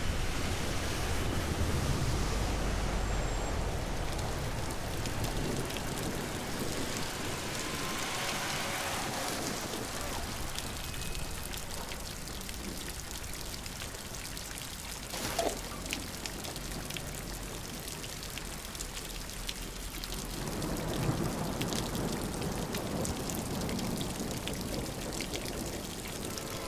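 Steady rain falling on a hard wet surface, with many small drop ticks and one sharper knock about fifteen seconds in.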